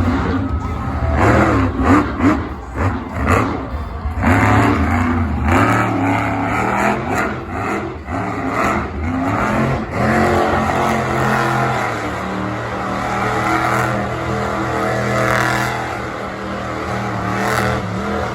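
Monster truck engine revving hard and running at high power, its pitch rising and falling, with several sharp bangs in the first few seconds and again about eight to ten seconds in.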